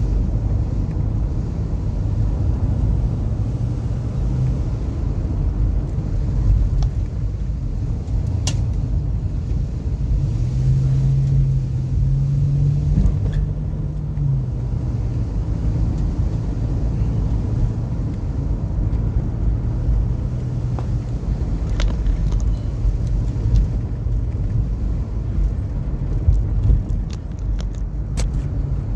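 Car driving along a road: a steady low engine and road rumble, with a few sharp clicks or knocks scattered through it.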